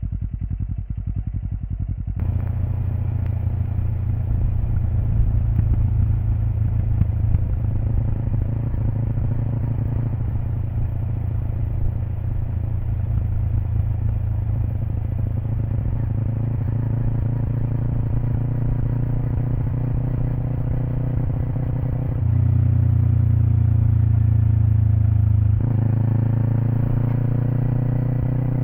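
Kawasaki Eliminator parallel-twin engine running through a BEAMS aftermarket header pipe and muffler, recorded close to the exhaust while riding. The note is quieter for the first two seconds, then steady under load. It drops lower and louder for a few seconds after about 22 s, and rises gently near the end as the bike speeds up.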